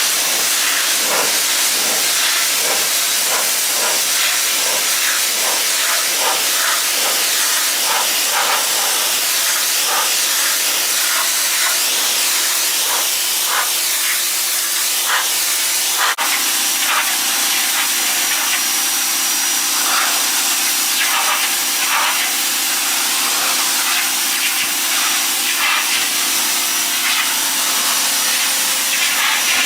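Ryobi 1800 psi electric pressure washer running: a loud, steady hiss of high-pressure water spray over the even hum of its electric motor and pump, with a brief click about halfway through.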